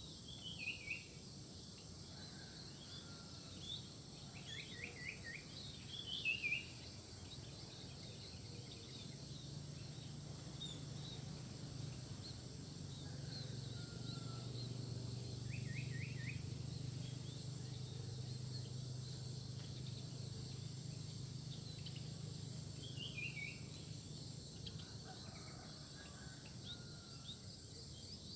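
Small birds giving short, quick runs of descending chirps every few seconds, over a steady high drone of insects and a low hum that swells in the middle.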